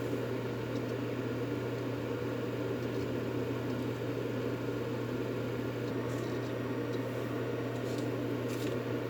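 Continuous white-noise track for soothing a baby to sleep: a low, even whir with a steady hum underneath. A few faint ticks come near the end.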